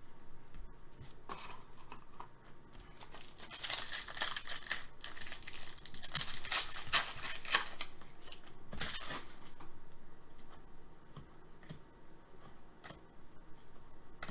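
Trading-card pack being torn and crinkled open, with its wrapper and the cards inside handled. It is loudest in a run of crackling and snipping noises from a few seconds in until most of the way through, with softer scattered clicks around it.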